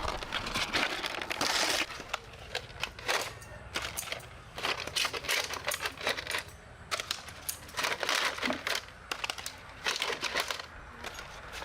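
Irregular snaps, knocks and rustling as bananas are handled, picked off the bunch and set down.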